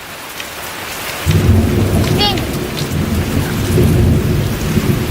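Rain falling steadily, joined about a second in by a loud, deep rumble that carries on.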